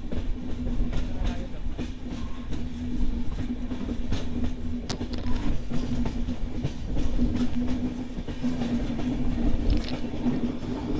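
Passenger express train running along the track: a steady low hum and rumble of the train in motion, with the wheels on the rails giving scattered sharp clicks, one louder about halfway through.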